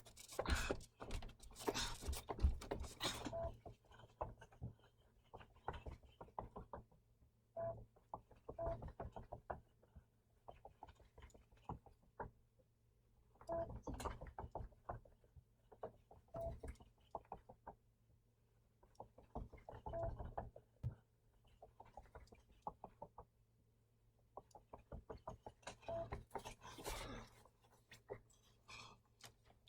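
Clusters of quick footfalls and thumps on a floor from someone exercising, each burst a few seconds long with quieter gaps between, and a few brief squeaks.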